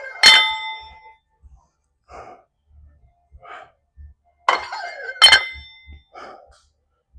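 Metal gym weights clanking together twice, about five seconds apart, each clank ringing briefly, with a few softer short knocks between.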